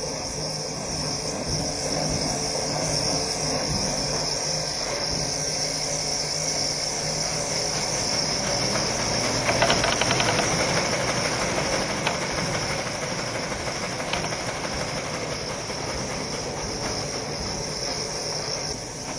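Toilet paper machine running: a steady mechanical hiss and hum, with a louder stretch of rapid clicking about halfway through.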